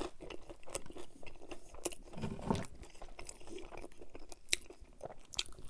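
Biting and chewing a toasted sandwich, picked up close by the microphone, with many short crisp crunches throughout.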